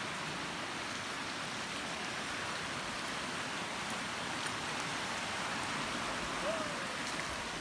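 Steady hiss of rain falling on the forest.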